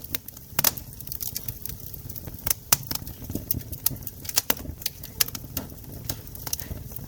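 Wood campfire crackling: irregular sharp pops and snaps, several a second, some louder than others, over a low steady rumble of the burning fire.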